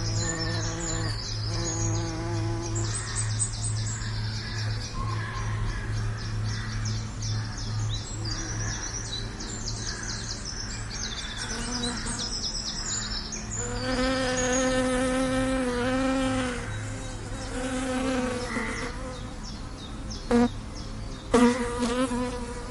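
Bees buzzing: a steady low hum with louder buzzes swelling and fading, strongest about two-thirds of the way through. Birds chirp rapidly at a high pitch alongside, mostly in the first half. Near the end come two short, sharp loud spikes.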